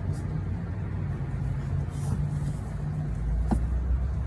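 1991 Buick LeSabre's 3.8-litre V6 idling steadily, with a single click a little past three seconds in and a deeper hum over the last second. The engine has a vacuum leak that the owner says makes it run badly.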